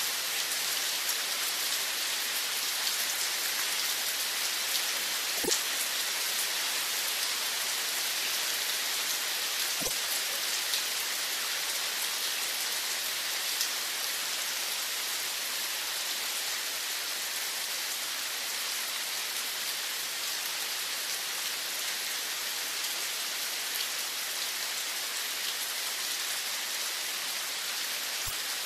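Steady rain falling, an even hiss of drops, with a couple of louder single drops about five and ten seconds in.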